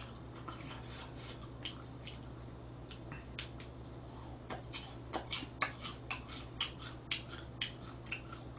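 Close-miked chewing and wet mouth clicks from someone eating with chopsticks: sparse at first, then a steady run of smacks about two or three a second in the second half, over a low steady electrical hum.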